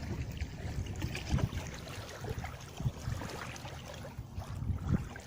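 Wind rumbling on the microphone over water lapping at the shore, an uneven low rumble with a few faint ticks.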